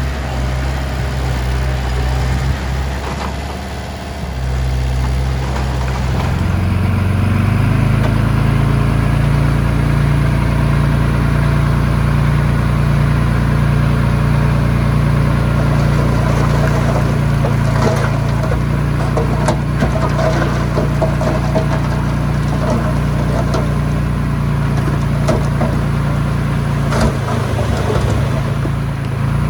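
Heavy machine's diesel engine running steadily, dipping briefly about four seconds in and then picking up to a higher, loaded speed that it holds. A few sharp metallic knocks come through about two-thirds of the way in and near the end.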